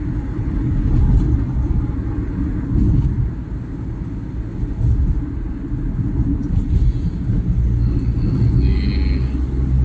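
Loud, steady low rumble of a road vehicle.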